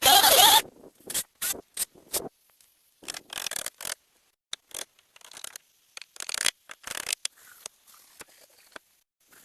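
Irregular bursts of scraping and rubbing, with short knocks in between. The loudest burst comes at the very start, and the sounds thin out to a faint hiss near the end.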